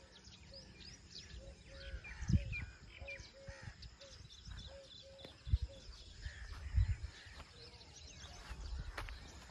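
Birds chirping and calling, many short high calls overlapping, with one bird repeating a short low note about twice a second for several seconds in the middle. Three low bumps are the loudest moments.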